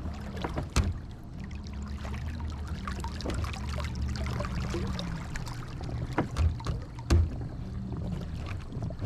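Water splashing and rushing along a kayak's plastic hull under way, over a low steady hum. There are two sharp knocks, one about a second in and one near the end.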